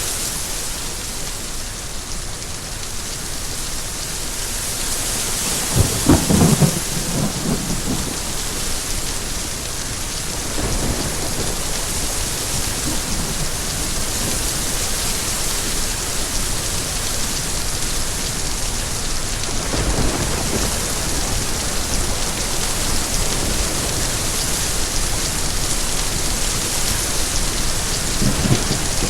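Steady rain with thunder rumbling over it: the loudest clap about six seconds in, and further low rumbles around eleven seconds, twenty seconds and near the end.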